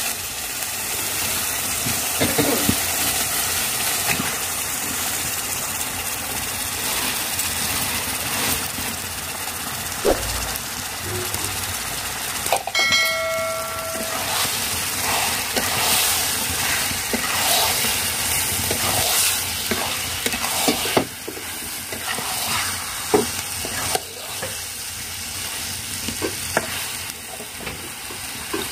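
Onion-garlic masala sizzling and frying in an iron kadai, with a metal ladle scraping and knocking against the pan as raw chicken pieces are added and stirred in. A brief chime rings out about halfway through.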